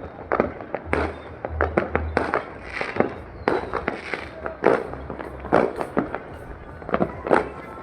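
Fireworks going off: an irregular series of sharp bangs, often two or three a second.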